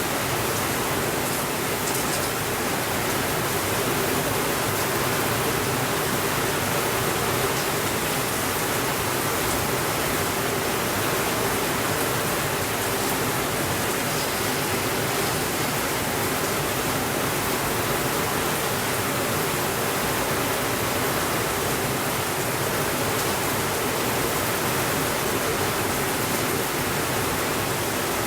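Steady, even rainfall: a dense, unbroken hiss with no thunder.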